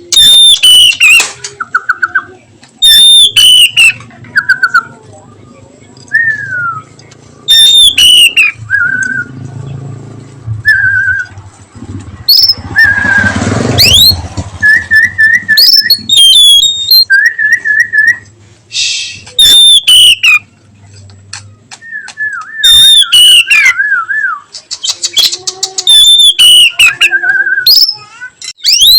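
Oriental magpie-robin (kacer) singing loudly in repeated phrases: clear whistles that slide down in pitch, with quick warbles and sharp high notes between them. A brief rushing noise swells and fades around the middle.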